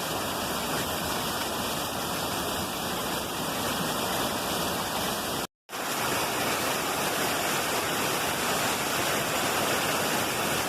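Running water rushing steadily, like a waterfall or fast stream. The sound drops out completely for a split second just past halfway, then resumes.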